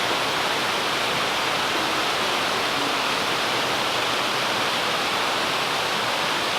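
Steady rushing of a 70-foot waterfall: an even, unbroken noise of falling water.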